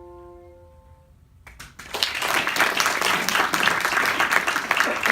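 The last piano chord of a recital piece dies away, then about two seconds in an audience bursts into applause that goes on to the end.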